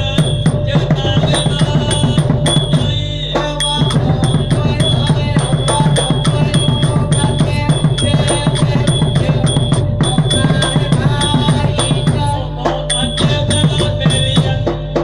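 Nora music from a southern Thai ensemble: fast, dense drumming with regularly repeated high ringing strikes over it. The drumming thins briefly about three seconds in, then picks up again.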